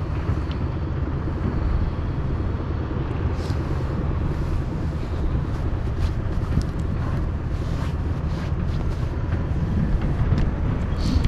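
Steady low rumble of wind buffeting the microphone, with faint scattered clicks.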